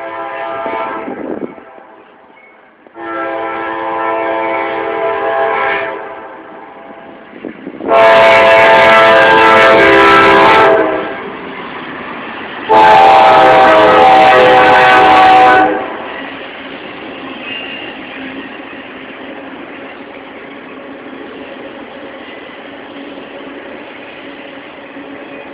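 Norfolk Southern freight locomotive's air horn sounding four long blasts, the last two much louder as the locomotive draws close. Then the steady rolling rumble of the autorack train passing.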